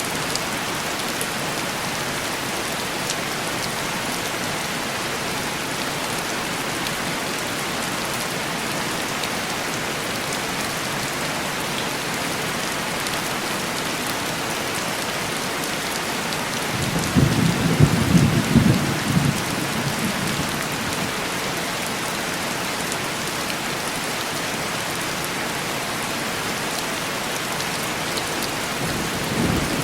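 Steady heavy rain pattering on window glass, with a low rumble of thunder rising about 17 seconds in and fading after about three seconds; another rumble begins near the end.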